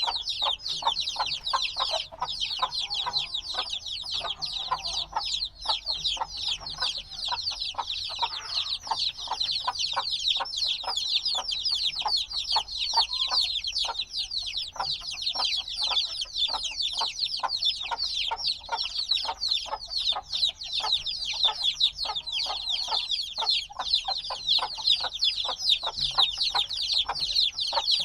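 A brood of chicks a few days old peeping loudly and without pause: many short, high, downward-sliding chirps overlapping in a dense chorus, the insistent peeping of young chicks that still want the warmth of the mother hen.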